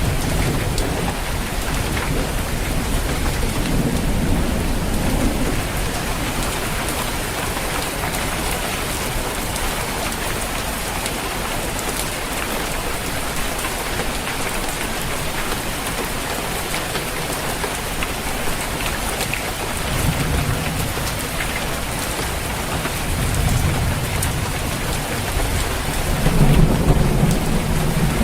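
Steady rain falling on a roof, with low rolls of distant thunder rumbling up several times, the strongest near the end.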